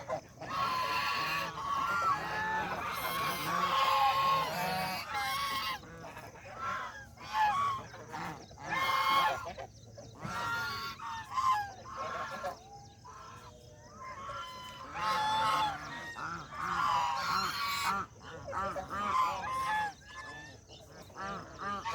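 A flock of birds calling, many short calls overlapping and repeating, with quieter spells between the busiest stretches.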